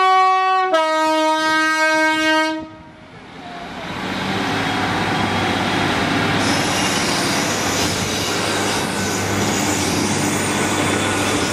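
Class 150 Sprinter diesel multiple unit sounding its two-tone horn: a short high note, then a longer low note that stops a little under three seconds in. It then runs past close by, its diesel engines and wheels making a steady loud rumble and hiss.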